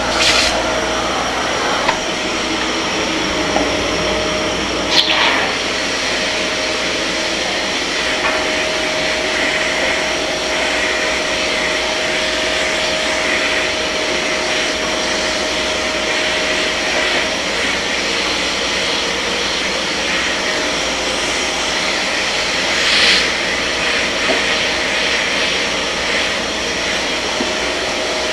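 Kärcher MV 6 P Premium wet-and-dry vacuum cleaner running steadily, with a few brief knocks near the start, about five seconds in and later on.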